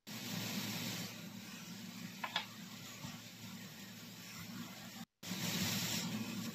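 Chicken and vegetable filling with corn sizzling in a frying pan as it is stirred with a slotted spatula, with one short scrape of the spatula against the pan about two seconds in. The sound breaks off briefly about five seconds in.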